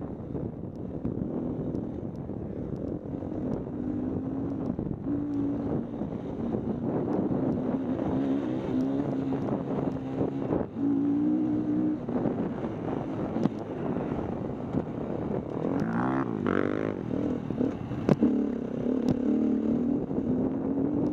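KTM 250 EXC-F four-stroke dirt bike engine running under load on a motocross track, its note rising and falling as the throttle opens and closes, with a sharp rev about three-quarters of the way through. Short knocks sound here and there over it.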